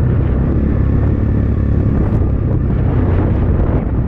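Templar X 250 dirt bike's single-cylinder four-stroke engine running steadily under the rider, with heavy wind noise on the microphone.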